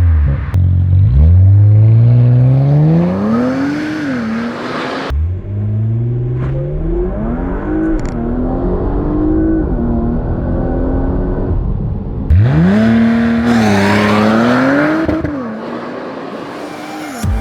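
Porsche Macan GTS twin-turbo V6 through a TECHART sports exhaust, accelerating hard in several runs: the note climbs, then drops back at each upshift. The runs are edited together, with abrupt cuts between them.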